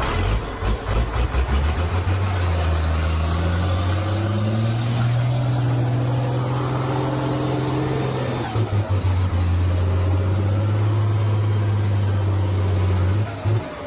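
Logging truck's engine pulling under load. Its pitch climbs over the first few seconds and then holds steady. About two-thirds in it stutters and drops a little in pitch, then pulls steadily again.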